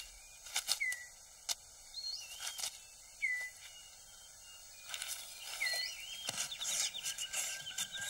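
Rainforest floor sounds: scattered clicks and rustles of leaf litter as a male six-plumed bird of paradise clears his display court. A bird's short whistled call that slurs down repeats several times, and a thin steady high tone joins in the second half.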